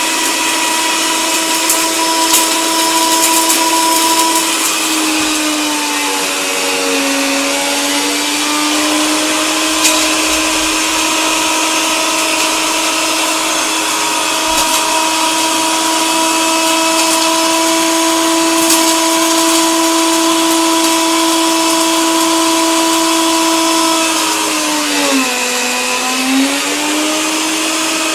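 Electric coffee grinder motor running steadily with a whining hum. Its pitch sags and recovers twice, about five seconds in and again near the end, with a few faint clicks.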